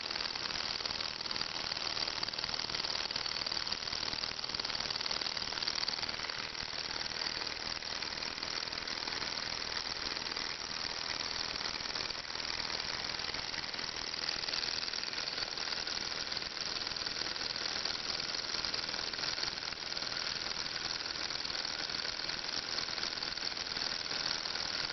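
Model Ross yoke hot-air Stirling engine running at a steady speed, its linkage giving a fast, even rattle.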